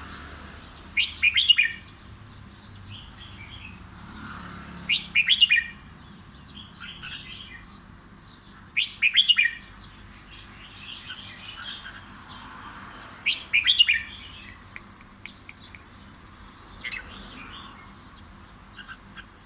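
Caged red-whiskered bulbul singing, repeating a short loud song phrase about every four seconds, with softer chirps between phrases.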